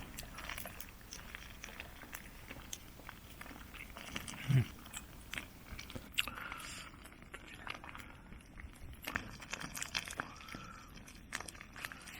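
A person chewing and eating quietly, with many small clicks and taps; a short low hum about four and a half seconds in.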